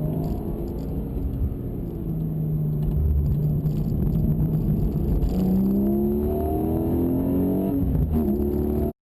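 Porsche Cayman GTS's naturally aspirated 4.0-litre flat-six running at a steady pitch, then climbing in revs under acceleration for a few seconds before the pitch drops near the end; the sound cuts off suddenly.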